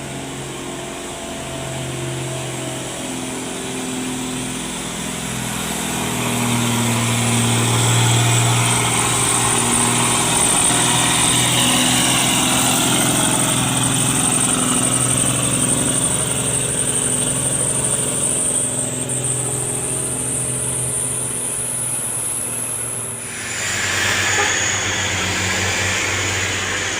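Heavy diesel engine working under load: a deep steady hum that swells and eases, with a high whine above it. About 23 seconds in, a broad rushing hiss takes over.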